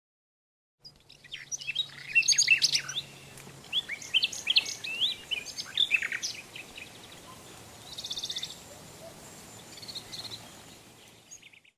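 Birds chirping: a quick run of high chirps and short whistled glides, then a short buzzy trill about eight seconds in. It starts about a second in and cuts off just before the end.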